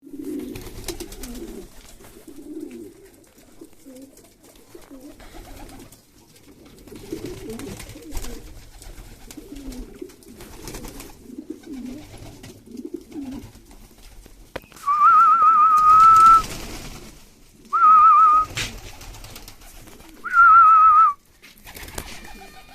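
Domestic pigeons cooing, a low throaty coo repeated over and over. About two-thirds of the way in, three loud warbling whistles break in, each a second or two long.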